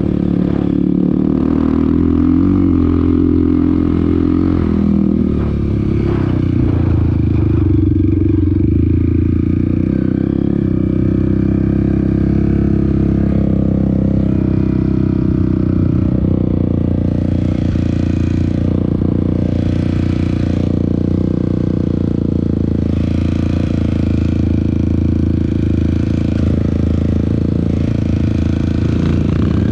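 Dirt bike engine running under way, its pitch rising and falling with the throttle for the first several seconds, then holding fairly steady.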